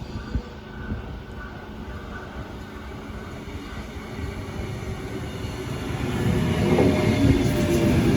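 Electric passenger train approaching on the line, its rumble growing steadily louder from about six seconds in, with a steady whine coming in near the end.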